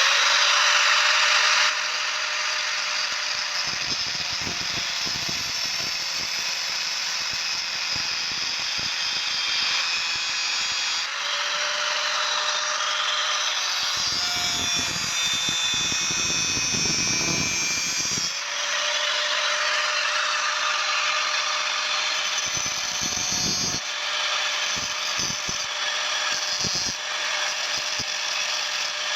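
Electric power tool running continuously on steel from a bearing, a steady hissing grind with a constant whine. Rough, lower rattling comes in around the middle and again later, with a few knocks near the end.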